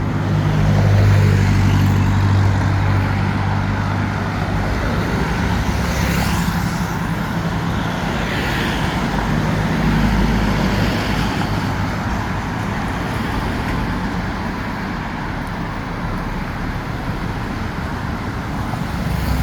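Steady road traffic noise of vehicle engines and tyres, with a deep engine hum that swells in the first few seconds and again about halfway through.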